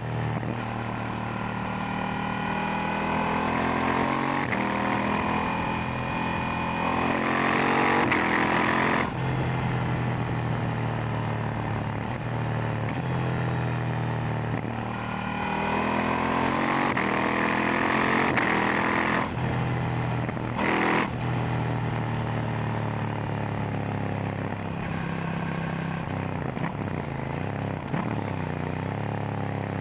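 KTM 890 Duke R's parallel-twin engine through its stock silencer, running under way. The revs climb for several seconds, drop off sharply about nine seconds in, and climb and drop again near the two-thirds mark as the bike accelerates and rolls off.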